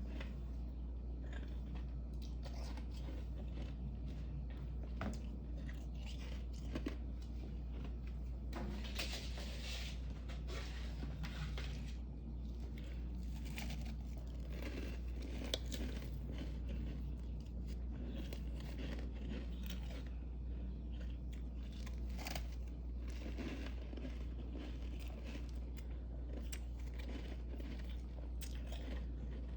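Close-up biting and chewing of crisp freezer frost: irregular crunches all through, over a steady low hum.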